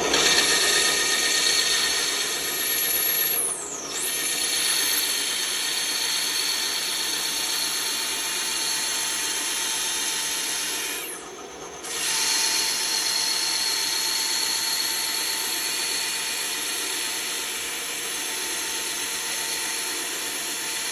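Bandsaw cutting through wood: a steady rasping whine that eases off briefly twice, about 4 and 11 seconds in, then picks up again.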